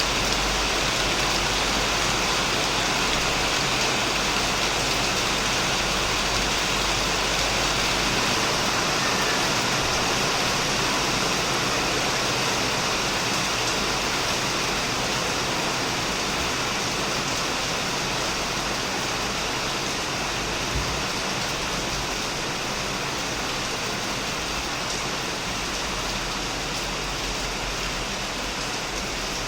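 Heavy rain falling steadily on a shed roof, an even dense patter with no let-up, easing slightly in loudness toward the end.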